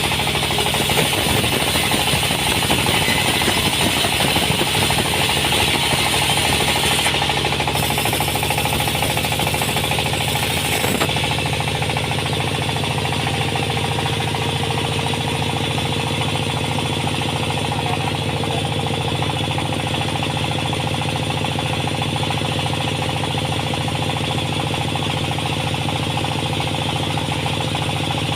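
Sawmill machinery running steadily, with a harsher rasping layer over the first eleven seconds or so that drops away, leaving the steady machine sound.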